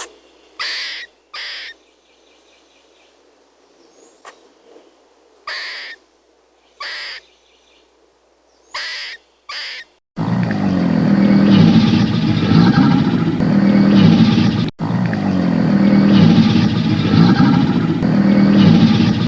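Animal calls: about six short, separate high calls in the first half, then a loud, dense, continuous mass of animal sounds that breaks off briefly near the middle of that stretch and starts again.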